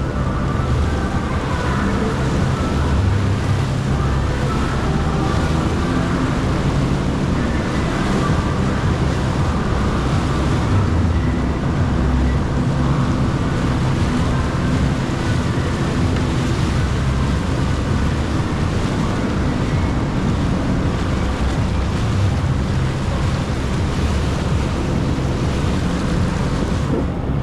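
Jet ski engine running steadily under way, its drone mixed with rushing water and wind on the microphone.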